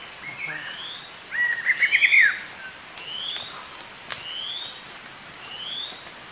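Forest birds singing: a short rising whistle repeated about once a second, with a louder quick run of notes about one and a half to two and a half seconds in.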